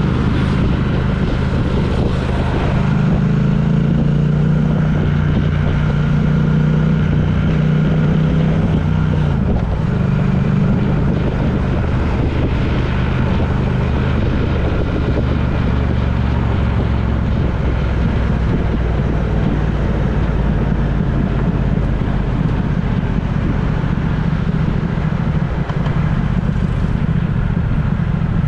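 Vehicle engine running steadily with road noise during a ride. The engine note rises a few seconds in and drops back at about ten seconds.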